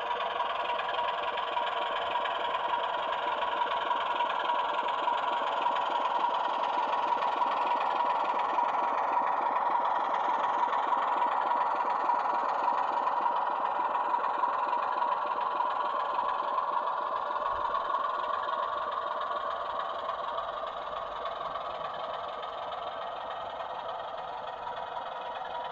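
00 gauge model locomotive running on the track: a steady mechanical, engine-like drone with rattle that grows louder over the first several seconds and eases off a little toward the end.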